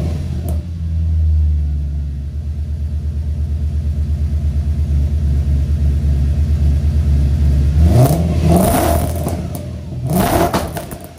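Audi S4 B6's 4.2-litre V8 idling with a regular pulsing beat, then revved twice, rising and falling back, about eight and ten seconds in. The owner hears a slight misfire in it.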